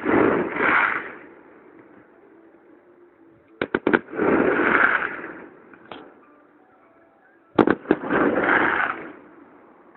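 Fireworks going off in three volleys, each a few sharp bangs followed by about a second of crackling.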